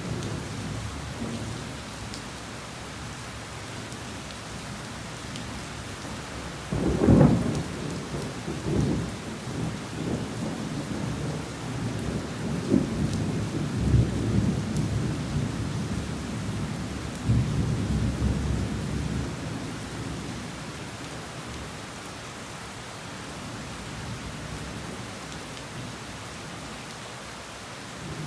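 Heavy rain falling steadily, with a clap of thunder about a quarter of the way in that rolls on as a low rumble with several loud peaks for about twelve seconds before dying away, leaving the rain alone.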